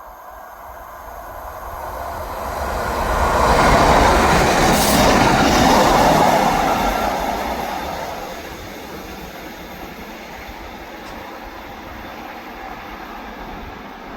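A train on the rails close by: its noise builds over about four seconds, is loudest for a couple of seconds, then drops to a lower, steady level.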